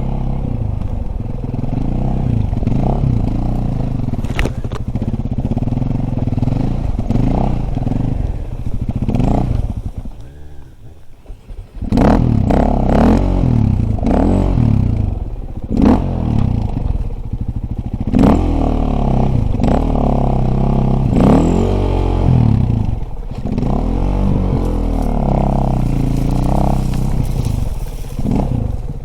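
Dirt bike engine being ridden, its revs rising and falling over and over. About ten seconds in it drops away briefly, then comes back harder, with quick rev sweeps.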